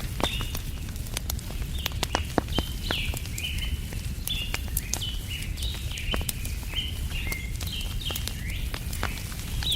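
Birds chirping over and over, about two short high calls a second, over a wood fire crackling with frequent sharp pops and a steady low rumble.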